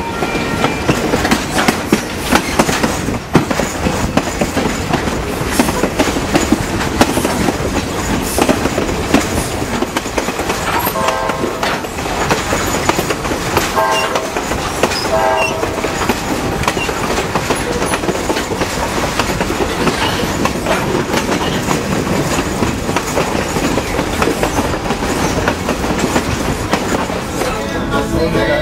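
Passenger train running along the track, heard from a coach window: a steady rumble and clatter of wheels on the rails, with wind. The locomotive's horn sounds three short blasts about midway.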